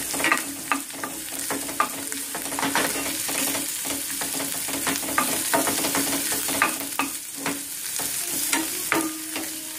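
Chopped onion and garlic-ginger paste sizzling in coconut oil in a frying pan, with a spatula stirring them and scraping and tapping against the pan many times over.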